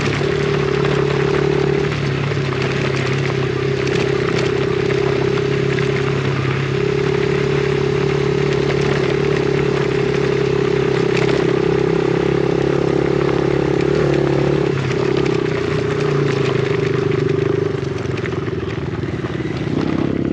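Yamaha TT-R50's small single-cylinder four-stroke engine running at a steady pitch while riding, over a haze of wind and rattle. It eases off slightly near the end.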